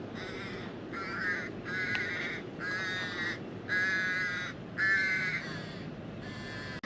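Seagull calling, a series of about seven repeated calls, each about half a second long.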